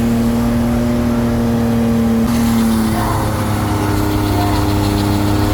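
Vehicle engine held at steady high revs, its note holding one pitch with a slight shift about halfway through.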